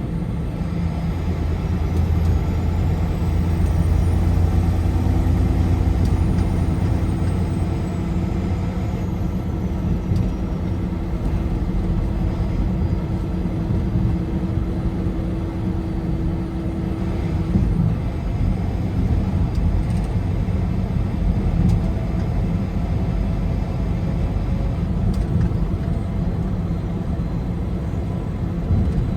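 Car driving at highway speed: a steady low rumble of tyres and engine, with a low hum that is strongest for the first several seconds.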